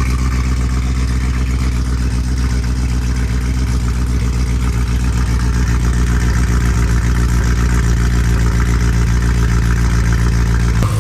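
Supercharged BMW E93 M3's S65 V8 idling steadily through a catless exhaust with no resonators, shortly after start-up. It runs smoothly with perhaps a slight miss, which the owner suspects is a misfire that is better but not fully cured.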